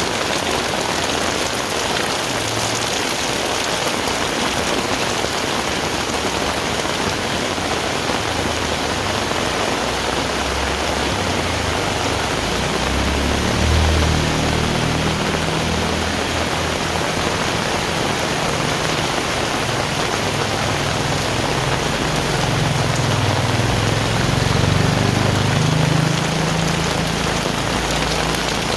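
Heavy rain falling steadily. About halfway through a low, rolling rumble joins it, swelling twice before fading near the end.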